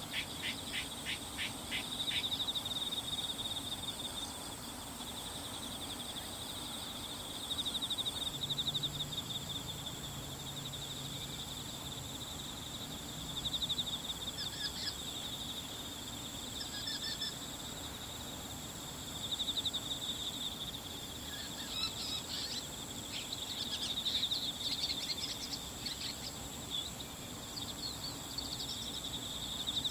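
Bull-headed shrike calling in bursts of quick, sharp repeated notes, once at the start and again in clusters through the second half; the uploader judges these are not its high-pitched autumn territorial call. Under it runs a steady chorus of trilling insects.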